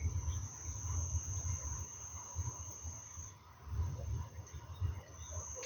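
An insect's steady high-pitched trill, which stops about three seconds in and starts again near the end, over an irregular low rumble.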